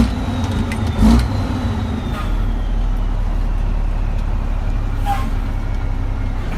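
Dump truck running on the road: steady engine rumble and road noise, with a short knock about a second in.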